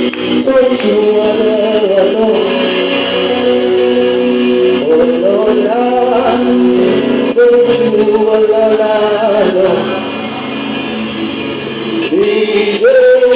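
Christian worship music: voices singing long, sliding held notes over guitar accompaniment.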